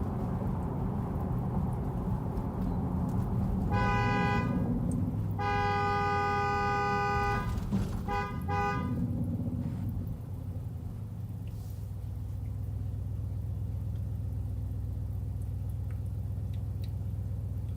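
Car horn honked four times: a short honk, a long blast of about two seconds, then two quick taps. A steady low drone of engine and road noise runs underneath throughout.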